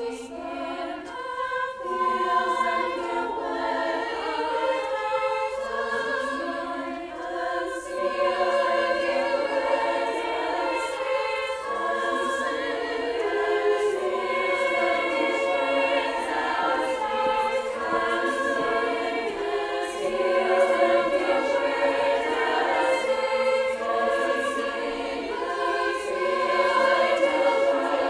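A choir singing in several parts, holding sustained notes that shift from chord to chord, with all the voices lying above about 250 Hz.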